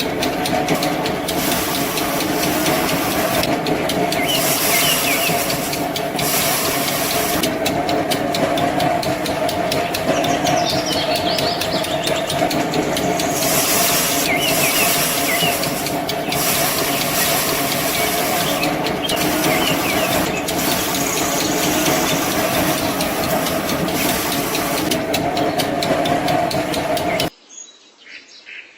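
A machine's motor running steadily with a constant hum and hiss, cutting off suddenly near the end, after which faint bird chirps remain.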